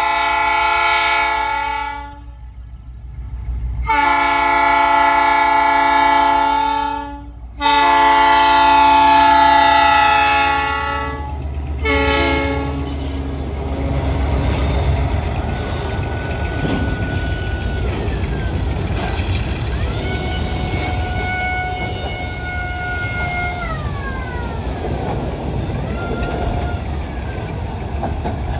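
The horn of a G22U diesel-electric locomotive sounds three long blasts and a short one, each a chord of several tones. The locomotive then passes with its twelve-cylinder EMD 645 two-stroke diesel rumbling, and freight cars roll by with a high steady whine over the rumble from about halfway through.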